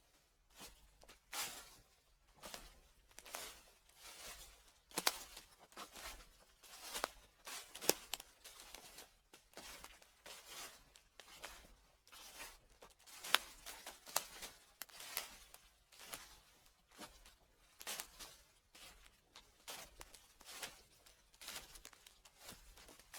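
Footsteps crunching through dry fallen leaves, slow and even at about one step a second, each step a crisp rustling crackle.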